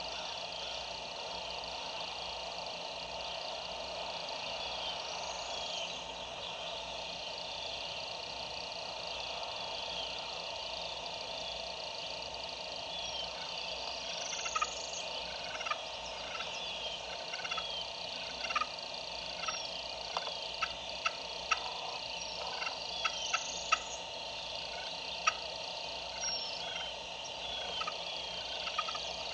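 Wild turkey gobbler gobbling faintly from far off, with songbirds chirping steadily over it. From about halfway through comes a run of sharp short ticks.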